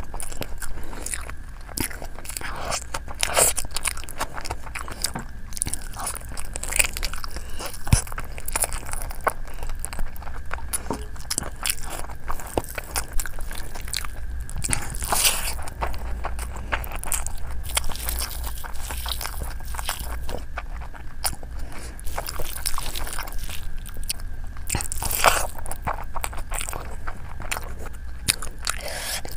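Close-miked chewing and biting of a person eating chicken and fried rice by hand, with frequent sharp clicks and crunches.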